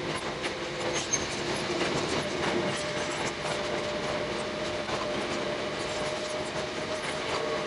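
A Hakone Tozan Railway 2000-series electric car running, heard from the cab: a steady rumble of wheels on rail with scattered clicks. A faint steady whine comes in about two seconds in.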